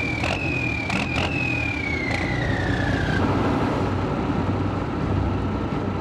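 Motor vehicle engine running with a steady low rumble. A high whine slides slowly downward and fades out about three seconds in, and a few clicks come in the first two seconds.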